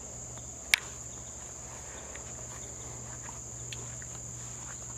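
Steady high-pitched chirring of crickets, with one sharp click about a second in.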